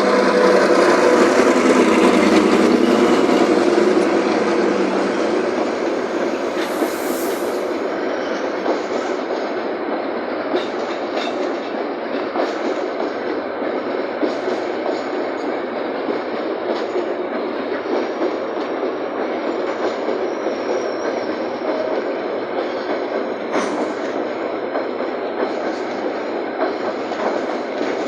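CRRC Qishuyan CDD 3A1 diesel locomotive passing close, its engine loudest in the first few seconds, then a long train of empty coal wagons and hopper wagons rolling past with a steady clickety-clack of wheels over the rail joints.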